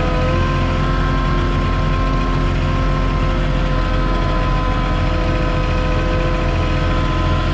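Diesel engine of a truck-mounted Moffett forklift running steadily at a constant low speed while it drives slowly with a heavy load on its forks.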